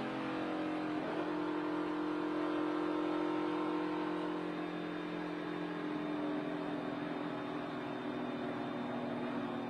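NASCAR Cup car's V8 engine heard from inside the cockpit, running at speed. The engine note changes abruptly about a second in, then its pitch sinks slowly.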